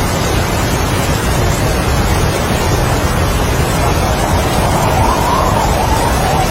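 Strong wind and heavy rain as one steady, loud rushing noise with a deep rumble underneath; a higher wind whistle swells about four seconds in.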